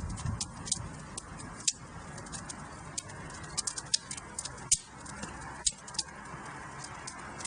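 Wood fire crackling in a fireplace: a steady low rush of flame with frequent sharp pops and snaps, a few louder ones about two seconds in and near the five- and six-second marks.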